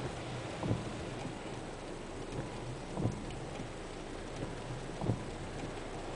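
Rain on a car heard from inside the cabin: a steady hiss, with a windscreen wiper sweeping across the glass about every two seconds, three times in all.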